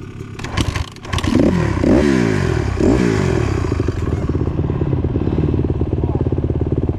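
Dirt bike engine starting after a few clatters: it catches, is revved up and down three times, then settles into a steady idle.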